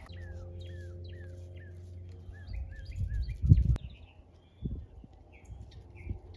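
Birds chirping, a quick run of short falling notes, over a steady low hum. About three and a half seconds in there is a louder low rumble that ends in a sharp click.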